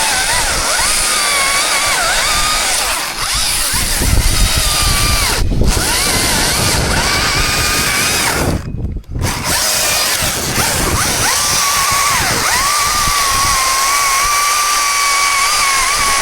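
Chainsaw running at high revs, its high whine wavering in pitch. A few seconds in the whine gives way to a rougher, lower sound, as in a cut under load. Shortly before the middle the sound drops out very briefly, then the whine returns steadily.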